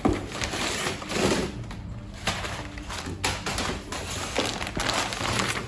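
Handling noise from car parts being laid out and unpacked: a series of light knocks and rustling, over a steady low hum.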